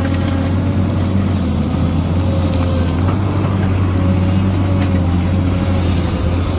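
Heavy construction machine's engine running steadily, with a few light clicks.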